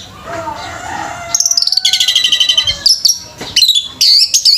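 Orange-headed thrush (anis merah) singing loudly in quick, varied phrases of rapidly repeated high notes, starting about a second in.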